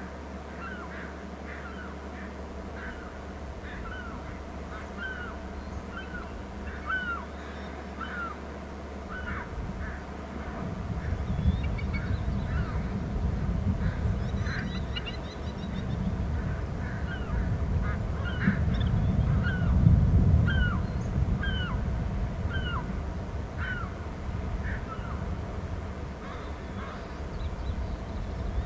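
Birds calling over and over, short high notes that slide down in pitch, one or two a second. A low rumbling noise swells from about ten seconds in and eases off near the end.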